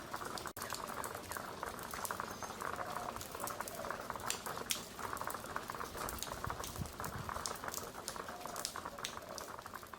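Rain falling steadily: a dense patter with many separate drops ticking close by. There is a brief dropout about half a second in.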